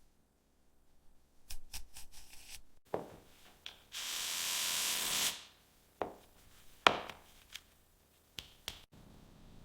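Small-scale handwork on a wooden model: scattered taps, knocks and clicks of tools and hands, with a steady hiss lasting about a second and a half in the middle. The sharpest knock comes about seven seconds in.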